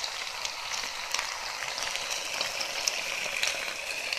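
Chicken pieces frying in a pan: a steady sizzle with many small pops and crackles of spitting fat.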